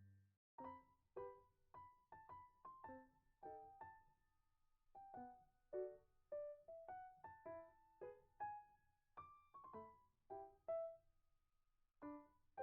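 Faint solo piano playing a slow melody of single, decaying notes, about two a second.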